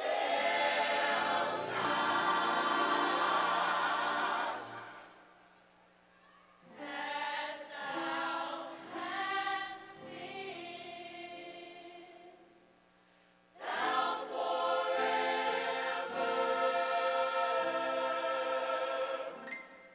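Gospel choir singing in three loud, swelling phrases, with quieter gaps between them; the middle phrase slides up and down in pitch.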